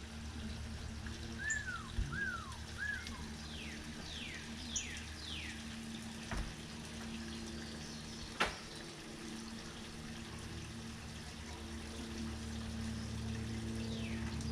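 Small birds calling in an aviary: three quick arched chirps about one and a half seconds in, then a run of three fast downward-sweeping whistled notes. These sound over a steady low hum, with a single sharp click a little past the middle.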